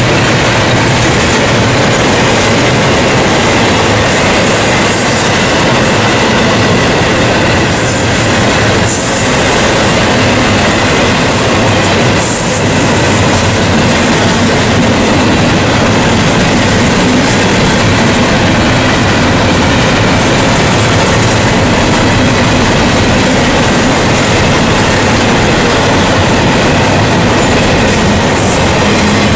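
Double-stack intermodal freight train's well cars rolling past close by: a steady, loud noise of steel wheels running and clattering on the rails.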